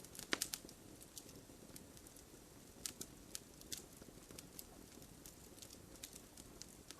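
Wood campfire crackling: irregular sharp pops and snaps over a soft low burning rustle, with a quick cluster of pops just after the start.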